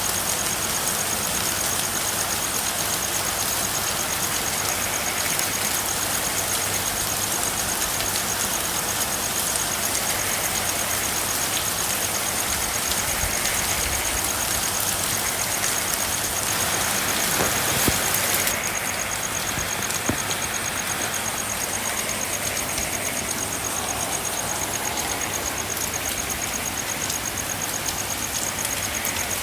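Steady rain falling, an even hiss with a thin, high, pulsing trill running through it. The hiss shifts briefly about two-thirds of the way in.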